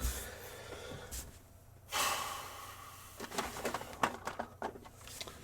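A person breathing heavily, with two long, noisy breaths in the first three seconds, then a few faint clicks and taps. The heavy breathing comes from a swollen nasal polyp.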